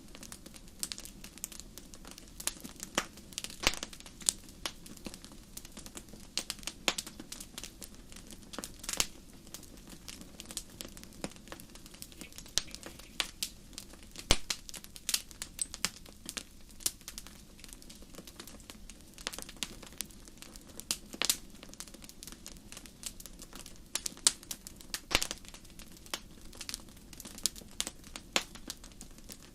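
Wood fire crackling in a fireplace: irregular sharp pops and snaps, some louder than others, over a steady low hiss of the burning fire.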